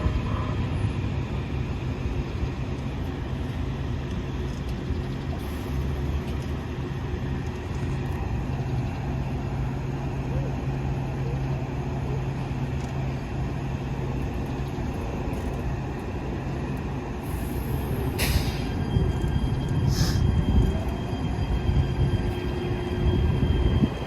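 Metro Rail light-rail train running with a steady low rumble and motor hum. Two short, sharp sounds come about 18 and 20 seconds in.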